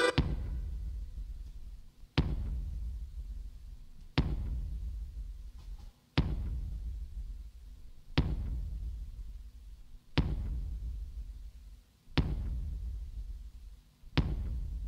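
Deep drum hits in a piece of music, one every two seconds, each dying away slowly: eight in all.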